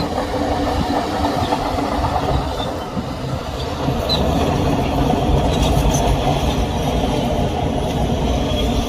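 Heavy diesel earthmoving machinery running steadily under work, a loud low rumble with a rattling texture and no pauses.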